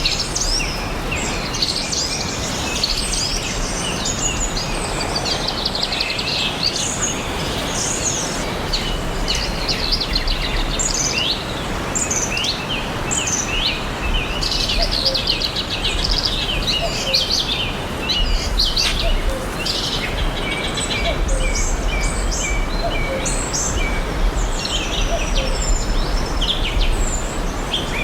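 Several songbirds chirping and trilling continuously in a forest dawn-chorus recording, many short high calls overlapping, over a steady background hiss and low rumble.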